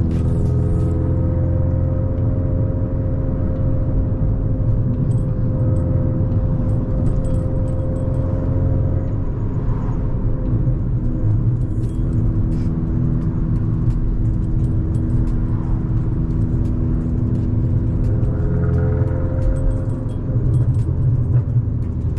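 VW Golf Mk5's 1.4 FSI four-cylinder petrol engine running while driving, a steady drone whose pitch slowly rises and falls with engine speed. Scattered light ticks and crackles are heard over it.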